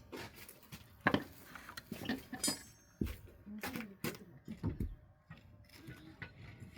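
Irregular knocks and clatter of wooden pallet pieces and props being moved and set in place to raise the stack base, with one ringing metallic clink about two and a half seconds in.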